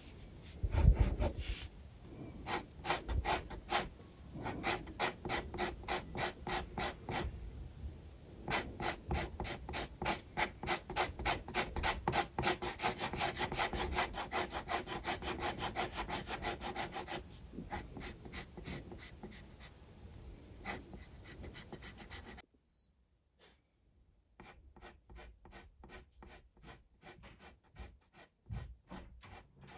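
Graphite pencil shading on sketchbook paper: rapid scratchy back-and-forth strokes, about four a second, with a soft knock about a second in. The strokes stop briefly about three quarters of the way through, then resume more lightly.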